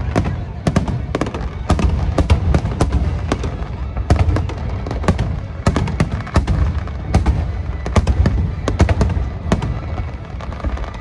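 Large fireworks display with aerial shells bursting in rapid succession: several sharp bangs and crackles a second over a continuous low rumble, easing a little near the end.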